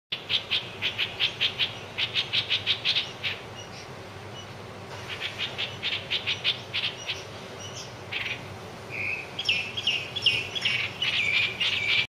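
Bulbul calling: bouts of quick, evenly repeated high chirps, about four or five a second, then more varied slurred calls in the last few seconds.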